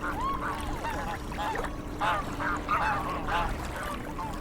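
Waterfowl on a pond calling over and over: a string of short calls, each bending up and down in pitch.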